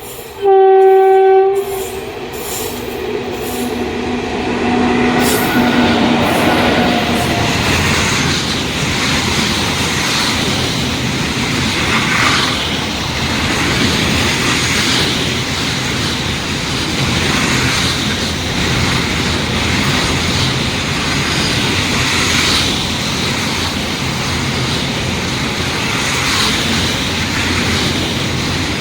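Locomotive horn sounds one loud blast about half a second in, then a freight train passes at speed. The wheels on the rails make a loud, steady rumble, with a rhythmic clatter as the wagons go by.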